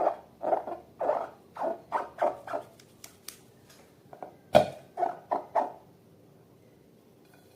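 Glossy slime being squeezed and kneaded by hand: a run of short wet squelches, two or three a second, a few small clicks, one sharp loud snap about halfway, then three more squelches.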